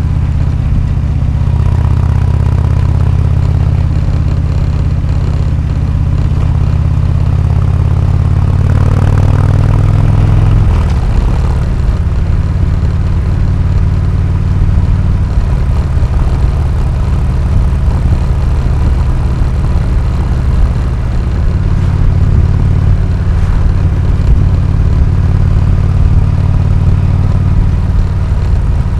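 2015 Harley-Davidson Road King Classic's Twin Cam 103 V-twin running through an aftermarket AMC HD4 exhaust. Its note rises briefly around nine seconds in, then about eleven seconds in it drops to a lower, lumpier, pulsing beat.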